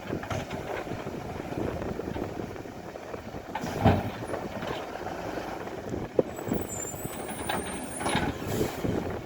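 Garbage truck working its collection round, its engine running under wind noise on the microphone, with a loud burst about four seconds in and a sharp click a couple of seconds later.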